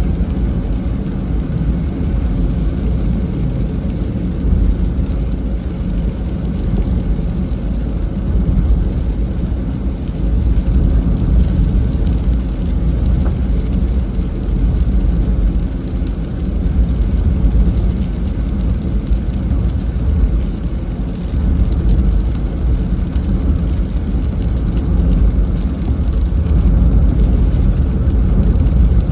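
A car driving on a road in the rain: a steady low rumble of road and engine noise that swells and eases a little.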